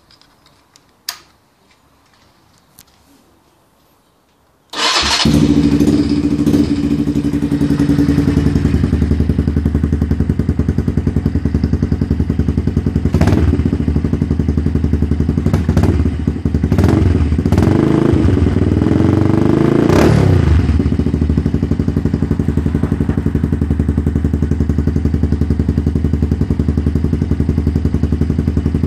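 Derbi Senda 125 motorcycle's single-cylinder engine, breathing through an Akrapovic exhaust with the dB-killer removed, starting abruptly about five seconds in after a few faint clicks, then idling loudly. It is blipped a few times midway, with a longer rising rev after that, and settles back to a steady idle.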